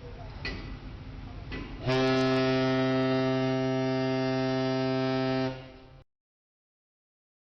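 A ship's horn sounding one long, steady, deep blast lasting about three and a half seconds, which fades away and is followed by dead silence.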